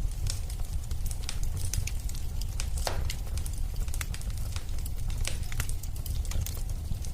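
Wood fire crackling in a fireplace: scattered sharp pops and snaps over a steady low rumble of flames, with one stronger pop about three seconds in.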